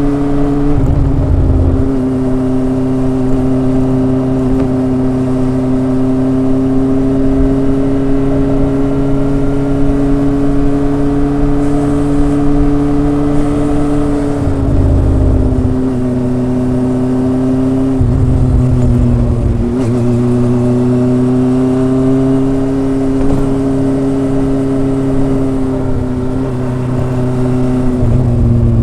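Kawasaki ZRX's inline four-cylinder engine and exhaust running at a steady cruising note under way, with the pitch dipping briefly about four times.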